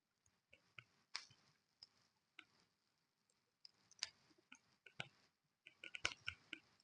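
Faint, irregular clicks and small snaps, coming more thickly about four seconds in and again around six seconds.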